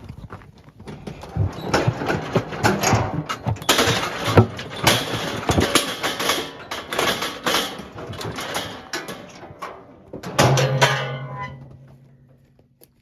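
Cattle squeeze chute clattering and banging as heifers' hooves strike the metal, with one loud clang about ten and a half seconds in that rings out and fades.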